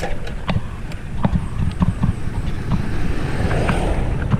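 Wind rumble on the microphone and road noise while riding a bicycle, with irregular sharp clicks and knocks from the bike, about two or three a second.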